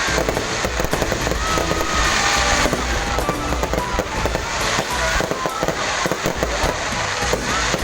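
Aerial fireworks crackling and popping densely and continuously, with a few short whistling glides now and then. Music plays underneath.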